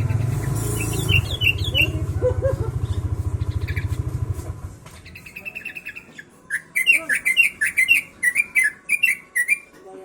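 Yellow-vented bulbul (trucuk) singing quick runs of chirping notes in sooty-headed bulbul (kutilang) style, loudest in the second half. For the first half a low, steady engine runs under a few early chirps, then stops.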